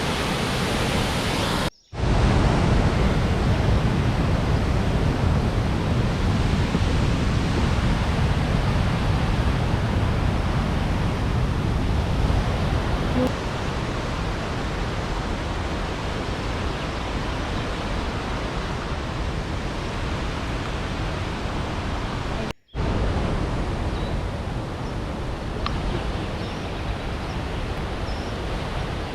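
Steady, heavy rush of Silvertip Falls' falling water, strongest in the low rumble, broken twice by a split-second drop to silence, about two seconds in and again after about twenty-two seconds.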